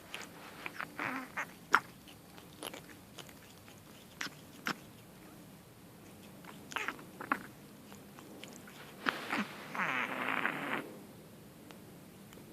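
Wet Persian kitten snorting through its nose: scattered short, sharp snuffles and clicks, then a longer, raspy snort near the end.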